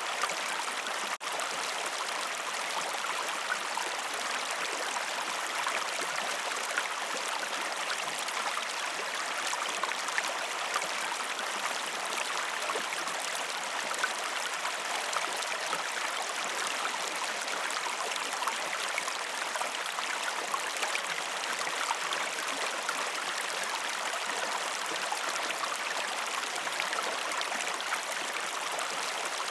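Waterfall: steady rushing and splashing water, with a momentary dropout about a second in.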